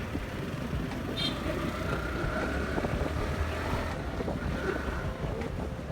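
Motorcycle engine running while riding, with wind buffeting the microphone in a steady rumbling noise; a couple of faint short tones sound over it.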